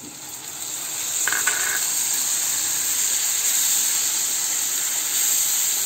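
Onion, garlic and green chilli paste sizzling in hot oil in a frying pan as it is stirred in with a wooden spatula. The sizzle swells over the first second, then holds steady, with a brief squeak about a second and a half in.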